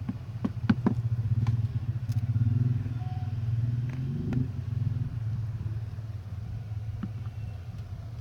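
A steady low rumble, like an engine running, that swells in the middle and fades again, with a few light clicks and taps in the first second.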